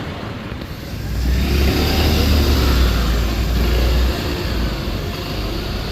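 A vehicle passing close by: a deep engine and road rumble with a hiss above it swells about a second in, holds for a few seconds, then eases off.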